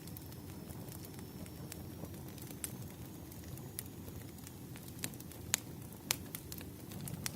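Wood fire crackling: scattered sharp pops and snaps, a few louder ones near the end, over a steady low rumble.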